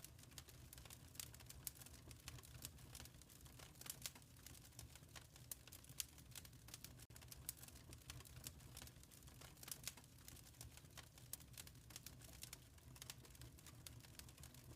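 Wood fire crackling softly in a fireplace: many small, irregular pops and snaps over a faint, steady low rumble.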